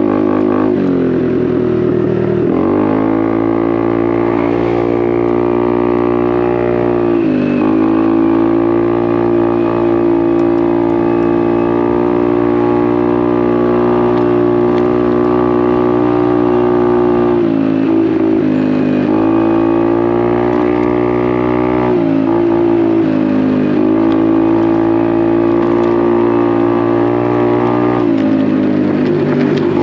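Honda Navi's small single-cylinder four-stroke engine running through an aftermarket Vance & Hines exhaust, held at steady high revs on the move. Several times its pitch drops briefly as the throttle is let off, then climbs back as it is opened again.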